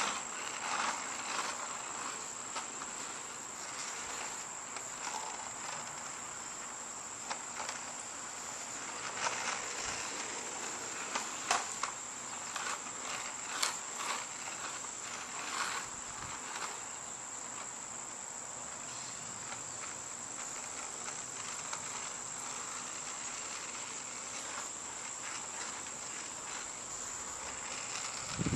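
A steady, high-pitched insect drone, with scattered clicks and short scraping noises over it.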